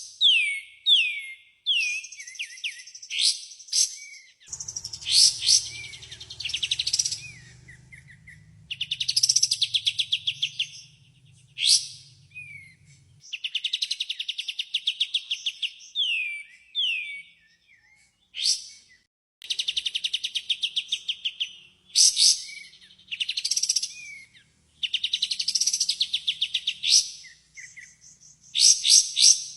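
Kapas tembak (bulbul) song, played as a lure recording: phrases of fast chattering trills and quick down-slurred whistled notes, repeated every second or two with short pauses between.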